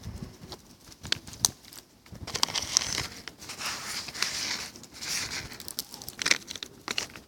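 Crinkling and rustling of a bag or wrapping being handled, likely opened to get food for pigeons. It comes in irregular short bursts with small clicks.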